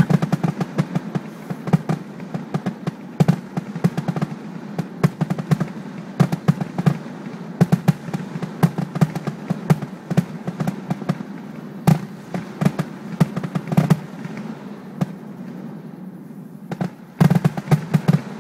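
Fireworks display: a dense run of rapid crackling pops and bangs. It thins out near the end, then a fresh loud burst of crackling comes in.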